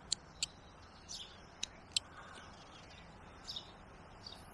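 Faint outdoor background with short, high bird chirps, about half a dozen scattered through these few seconds.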